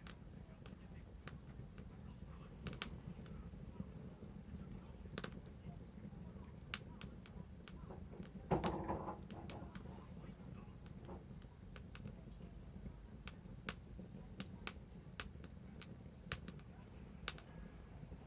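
Wood fire crackling: faint, irregular sharp pops and snaps over a low steady background, with one louder short sound about halfway through.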